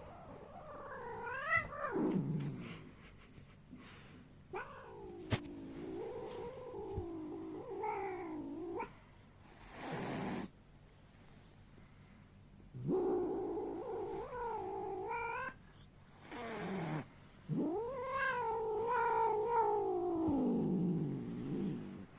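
A tabby cat yowling in several long, drawn-out meows, each wavering up and down in pitch, with short pauses between them.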